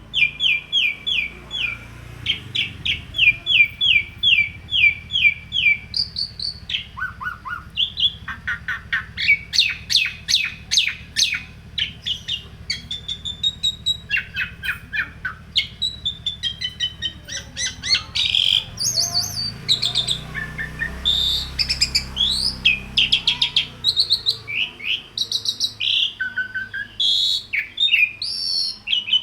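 A bird singing a long, nonstop song. It changes phrase every few seconds: runs of repeated notes at about four a second, fast trills and quick rising and falling whistles.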